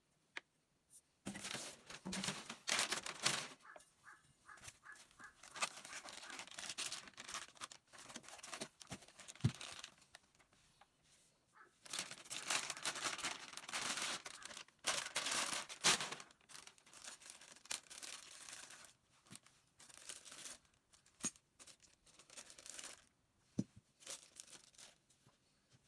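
Packaging crinkling and tearing in irregular bursts of rustling, with a few sharp clicks between them.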